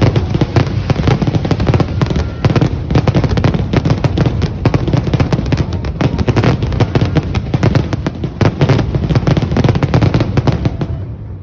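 Fireworks display going off in a rapid, continuous barrage of bangs and crackles, which stops fairly suddenly near the end.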